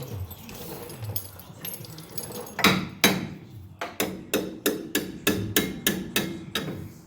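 Hammer blows on steel front-suspension parts of a 1978 Chevy C10: two hard strikes, then a steady run of about a dozen blows, three or four a second, each with a metallic ring.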